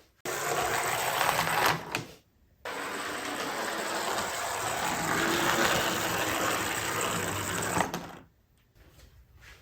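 Model train locomotive with oversized wheel flanges running on Code 100 track: a small electric motor whirring with the wheels clattering on the rails. It cuts out briefly about two seconds in, then runs on steadily and stops near the end.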